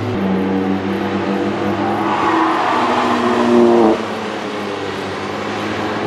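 Car engine pulling hard, its note climbing steadily and growing louder for a few seconds, then dropping sharply about four seconds in and settling to a lower, steadier note.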